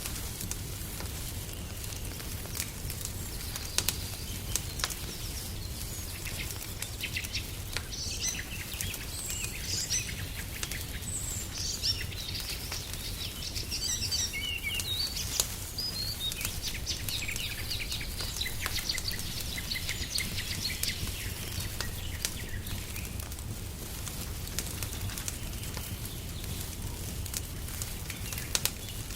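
Wood fire crackling, with scattered sharp pops over a steady low rumble. Songbirds chirp and twitter from about eight seconds in until a little past twenty seconds.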